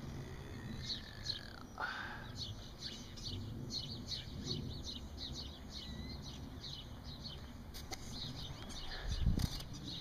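Several small birds chirping: a steady stream of short, high, falling chirps, with a couple of longer falling whistles in the first two seconds. A low thump near the end.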